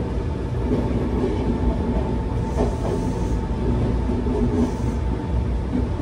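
Inside a Semboku Rapid Railway commuter train running slowly: a steady low rumble with a faint steady whine, and the wheels clacking over rail joints and points, once about two and a half seconds in and again a couple of seconds later.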